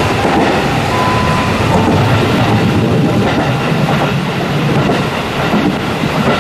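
Running noise of a passenger coach heard from its open rear observation deck: a steady, loud rumble of wheels on jointed rail (track without long welded rail).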